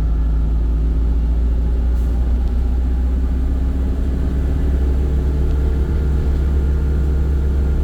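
Volvo B5 single-deck bus's drive running steadily, heard on board: a heavy low rumble under a steady hum, with an extra steady tone joining about two-thirds of the way through.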